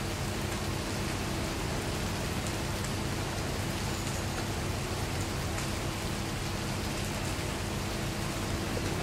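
Steady rain falling on a paved path and foliage, an even hiss with scattered drop ticks, over a faint low steady hum.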